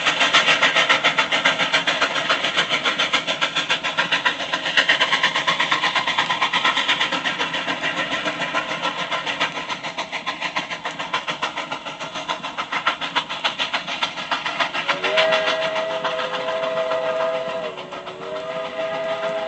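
Steam locomotive running with rapid, even exhaust chuffs that slowly fade. About fifteen seconds in, a chime steam whistle sounds a long multi-note blast that sags in pitch for about a second, then sounds again.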